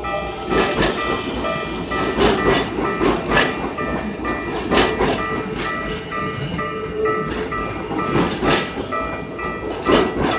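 A Keikyu train passing over a level crossing, its wheels clacking over the rail joints in pairs, while the crossing's warning bell keeps ringing at about two and a half strikes a second.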